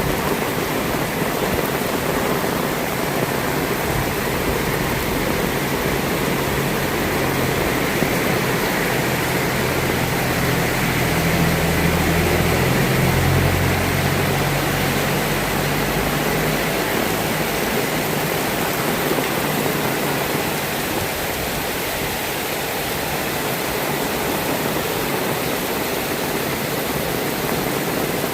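Heavy rain falling steadily, a constant dense hiss. Near the middle a low hum swells for several seconds and then fades under the rain.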